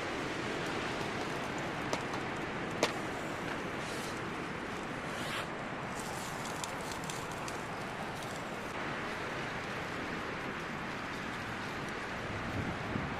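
Strong wind blowing steadily, with a few brief sharp clicks about two and three seconds in.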